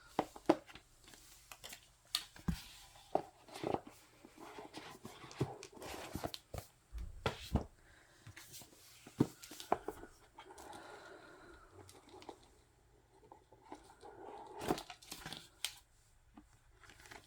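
Packaging of a K-pop album being torn open and handled: tearing and crinkling of plastic wrap with scattered short clicks and rustles of card and paper.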